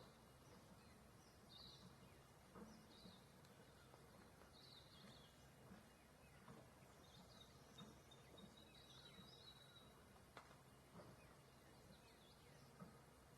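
Faint, steady outdoor background noise with birds chirping softly in short, high calls every second or so, and a few faint clicks.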